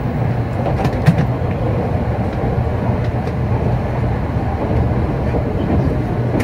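Running noise of a 700 Series Shinkansen heard inside the passenger car: a steady rumble of wheels on rail, with a sharp knock about a second in.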